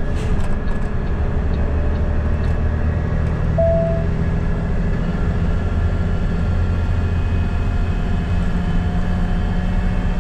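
Truck's diesel engine running steadily under way, heard from inside the cab along with road noise. A short beep sounds about three and a half seconds in.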